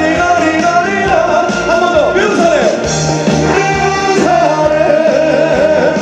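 A trot song performed live: a band playing with a male voice singing a wavering melody.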